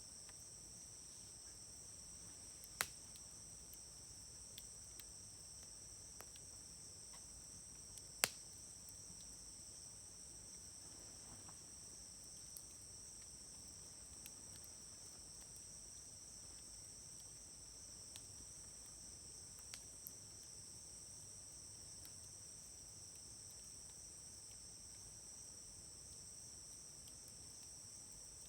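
Wood fire crackling in a fire grill, with sharp pops of burning wood: two loud ones about 3 and 8 seconds in and scattered small crackles. Insects chirr steadily and high-pitched behind it.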